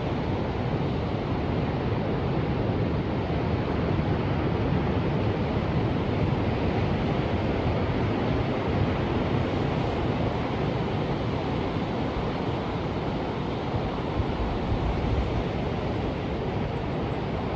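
Ocean waves: a steady rush of surf that swells gently and eases.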